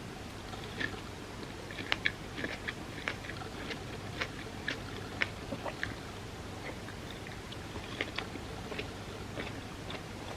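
Close-miked chewing of soft, creamy crepe cake: many irregular wet mouth clicks and smacks over a steady background hiss.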